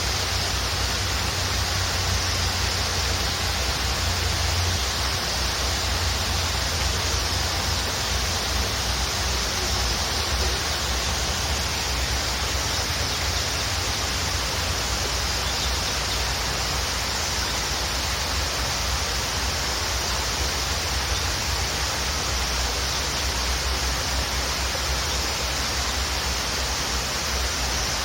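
Waterfall: a steady, even rush of falling water, with a deep rumble and a bright hiss.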